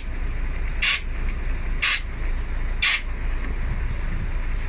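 Short, sharp hisses of compressed air, three in a row about a second apart, then they stop, over a steady low engine rumble.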